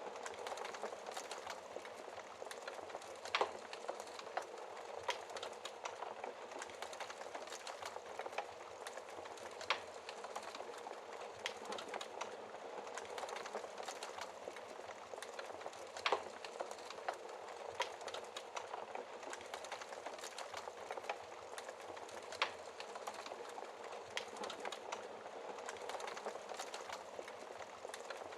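Wood fire burning in a fireplace: a steady crackle full of small snaps, with four sharper pops about six seconds apart.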